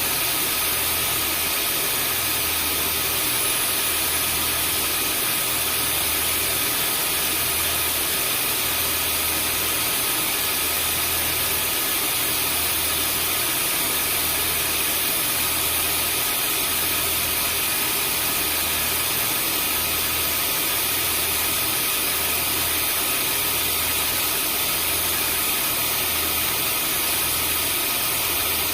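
Vacuum cleaner motor running steadily, a constant rushing hiss with a high motor whine over it. Underneath is a low hum that swells and fades about every second and a half.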